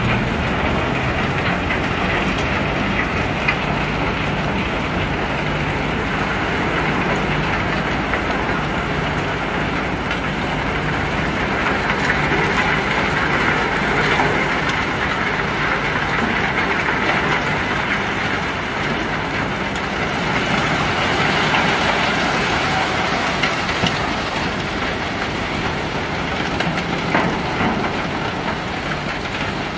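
Self-unloading ship discharging a load of pebbles: a steady, continuous rattle of stones over the low hum of running machinery.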